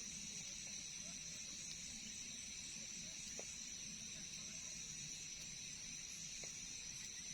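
A steady, high-pitched chorus of night insects such as crickets, trilling without a break.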